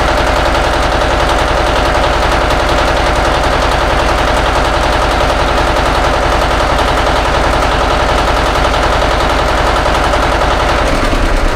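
An engine running steadily with a rapid, even beat. Its low part changes about eleven seconds in.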